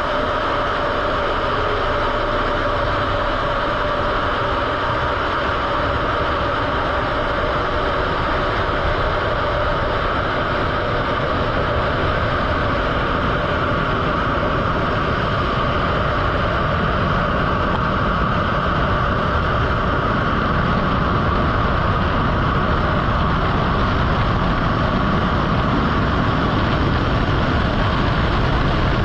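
Jet engines of the Blue Angels' Navy jets making a loud, continuous noise that grows slowly louder and deeper through the second half.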